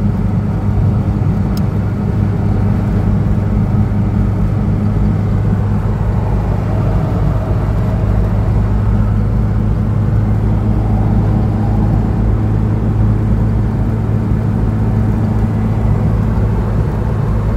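Cabin noise of a 1997 Reliant Robin cruising at motorway speed: its 850 cc four-cylinder engine running at steady revs with a low drone, under road and tyre noise.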